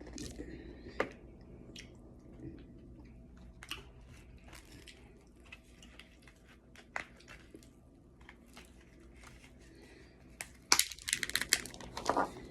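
Close-miked eating: chewing with scattered small clicks and crackles, then a loud, crackly crunching burst lasting about a second and a half, near the end.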